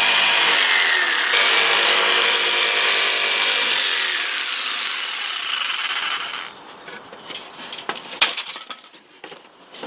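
Electric power saw cutting through wood for about six seconds, its motor note sagging as the blade bites, then stopping; a couple of sharp knocks follow near the end.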